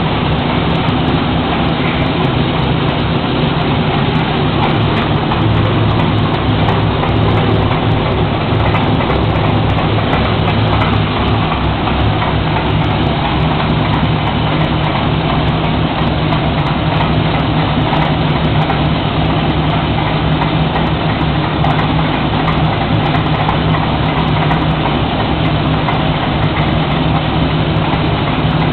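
Classic muscle-car engine idling steadily with a low rumble, no revving.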